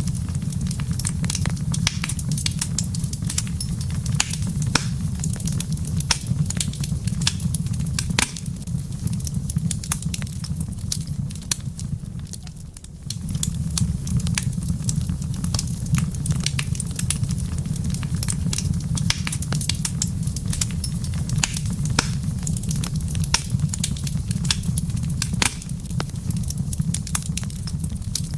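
Wood fire crackling in a fireplace: dense, irregular sharp pops and snaps over a steady low rumble. The sound briefly dips about twelve seconds in.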